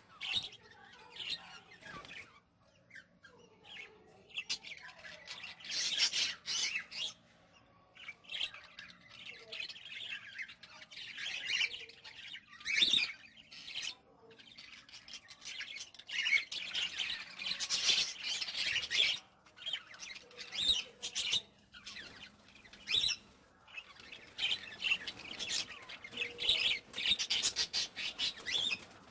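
A room of caged budgerigars and cockatiels chattering and squawking, in uneven bursts of high-pitched calls.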